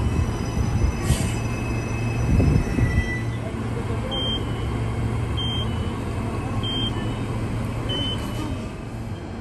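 A passenger train running on the track, with a steady low hum and a rumble that swells about two to three seconds in, and a few thin high squealing tones early on. Four short high beeps sound evenly, about a second and a quarter apart, in the second half.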